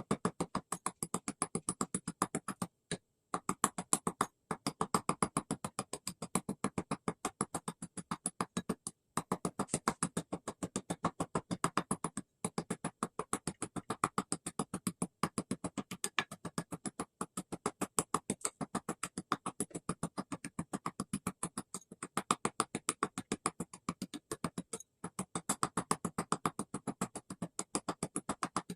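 Rapid, regular tapping or clicking, several strikes a second, broken by short pauses.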